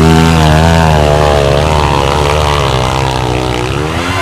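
Motorcycle engine revving hard under load on a steep uphill climb, its pitch wavering up and down with the throttle; it slowly grows fainter toward the end.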